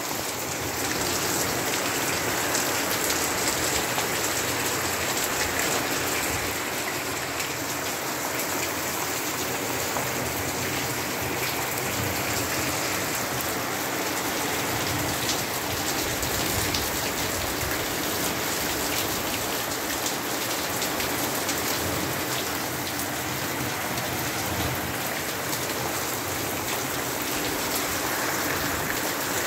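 Steady rain falling: a dense, even hiss of many drops that holds at the same level throughout.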